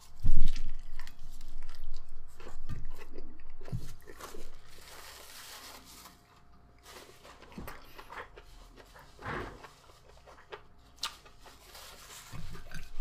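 A bite into a beef burrito followed by chewing and mouth sounds. The bite just after the start is the loudest moment; the chewing is busy for the first few seconds, then turns quieter, with scattered smacks and clicks.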